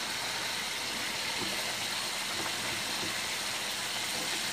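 Sliced potatoes frying in hot oil in a skillet: a steady sizzle, with a few soft knocks of a spatula stirring them.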